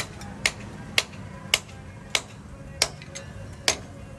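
Hammer blows on metal in wheel bearing work: sharp knocks about two a second at an uneven pace, some leaving a brief metallic ring, over a steady low hum.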